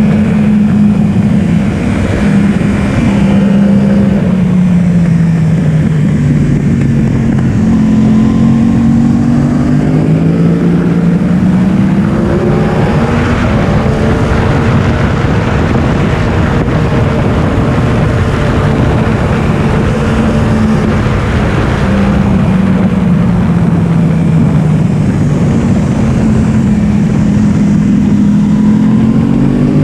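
Yamaha R1's inline-four engine heard onboard at track speed, its pitch sweeping up and down repeatedly as the bike accelerates, shifts and slows for corners, over steady wind rush.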